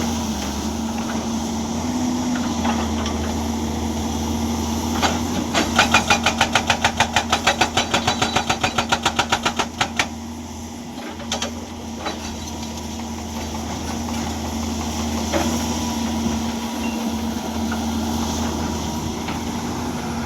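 Hyundai excavator's diesel engine running steadily, with its hydraulic breaker hammer striking rock in a rapid run of blows, about five a second, for some four seconds starting about five seconds in.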